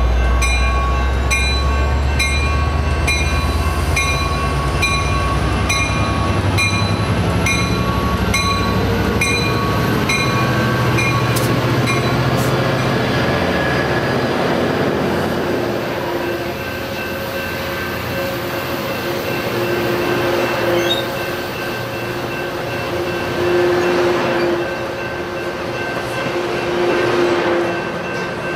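EMD F59PHI diesel-electric locomotive (12-cylinder EMD 710 engine) pulling a commuter train away from the platform. Its engine rumbles heavily with a whine rising in pitch, and its bell rings in a steady beat for the first dozen seconds. Then the engine sound fades and the bilevel coaches roll by with a steady hum and occasional wheel clacks.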